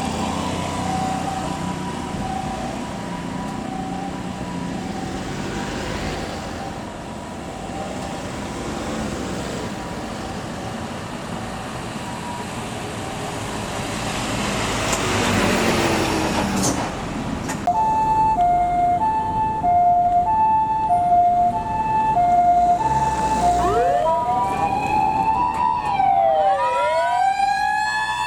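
Fire engine sirens on a responding convoy. A faint high-low two-tone siren sounds over traffic at first, and a vehicle passes about halfway. About two-thirds of the way in, a loud high-low two-tone siren starts, and near the end a wailing siren rising and falling joins it.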